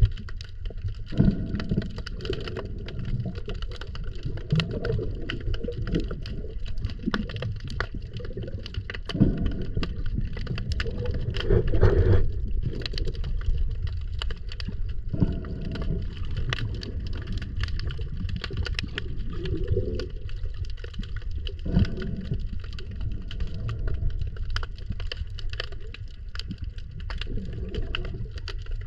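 Underwater recording: low bubbling rushes come every few seconds, like a diver's exhaled breath, over a steady crackle of sharp clicks.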